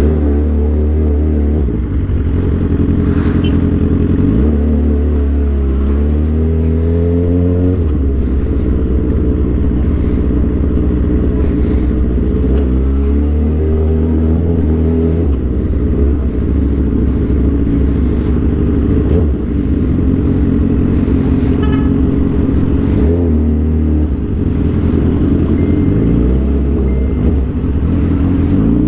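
Suzuki GSX-R 750's inline-four engine running under way with its aftermarket Orion exhaust. It revs up in several rising sweeps and drops back between them as it pulls through the gears.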